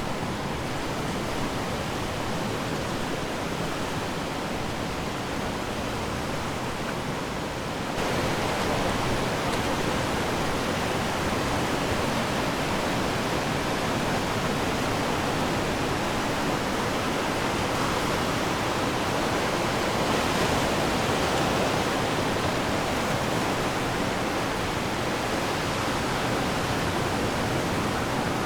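Steady rushing wash of ocean waves breaking on the shore, with no distinct single breakers standing out. About eight seconds in it abruptly becomes a little louder and fuller.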